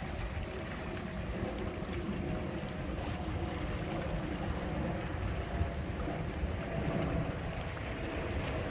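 Steady sea ambience: wind rumbling on the microphone over washing water, with a faint steady hum underneath.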